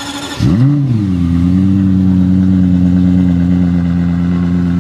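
Lexus LFA's 4.8-litre V10 firing up about half a second in, with a brief flare of revs that rises and falls, then settling into a steady idle.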